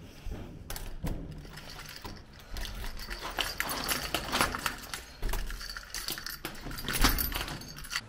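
A bunch of keys jangling and scraping in a front-door lock as the door is unlocked, with many small metallic clicks and a sharper click near the end.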